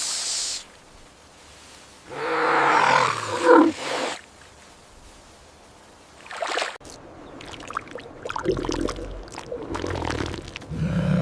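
Elephant calls: a short burst at the start, a loud call about two to four seconds in and a brief one near the middle, then low rumbling in the last few seconds.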